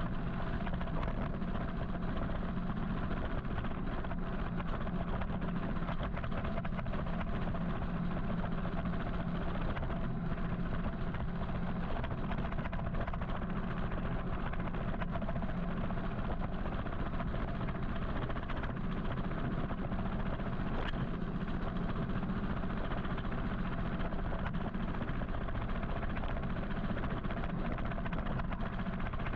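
Steady road noise of an electric motorcycle ride through city traffic: wind and tyre rumble with a low, even hum, and no engine note.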